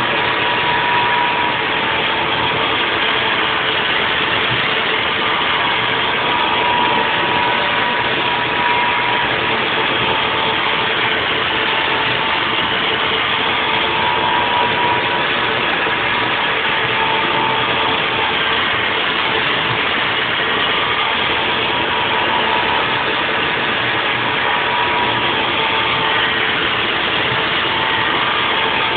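Haas VF4 CNC vertical mill running a 3D machining cut: a steady, unbroken machining noise with a faint steady tone and a higher tone that fades and comes back now and then.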